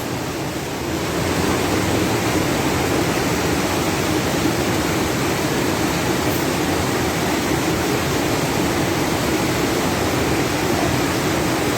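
Floodwater running steadily across the road, heard as a continuous, even rush of water.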